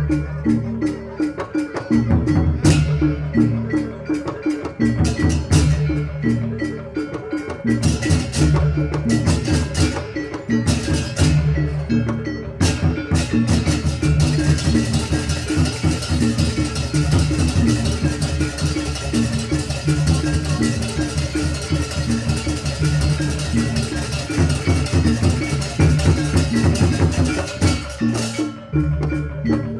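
Javanese gamelan-style accompaniment for a barongan dance: drums with tuned gongs and metallophones playing a steady, fast, repeating rhythm. A bright hissing layer joins about halfway through and drops out near the end.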